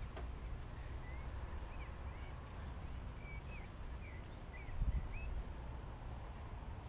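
Birds chirping with short rising and falling calls over a steady low rumble, with a soft thump just under five seconds in.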